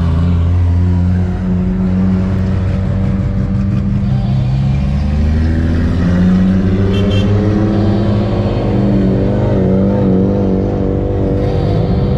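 A car engine running loudly and revving: its pitch climbs about halfway through, then wavers up and down near the end.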